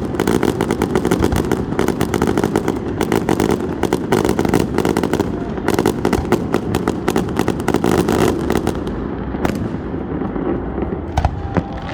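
Fireworks crackling in a rapid, continuous string of many sharp pops a second. About nine seconds in the string thins out to a few separate bangs.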